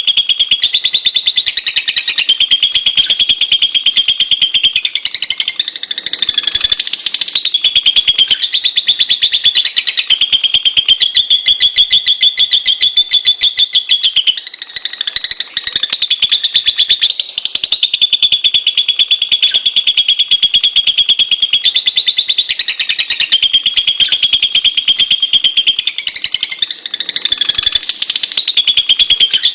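Lovebird chattering: a fast, unbroken, high-pitched twittering that barely pauses, dipping briefly about halfway through and again near the end.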